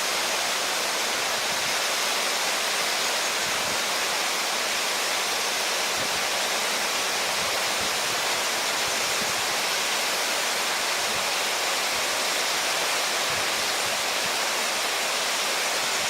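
Steady rushing noise of running water, cutting in abruptly and holding an even level throughout.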